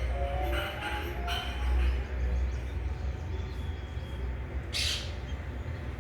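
Parrots and munias calling: a few short calls in the first second and a half, then one loud, harsh call about five seconds in, over a steady low rumble.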